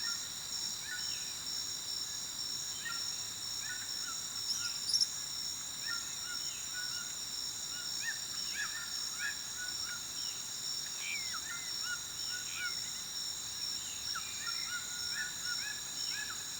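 Nature ambience: a steady, high insect drone under many short, scattered animal calls that overlap throughout.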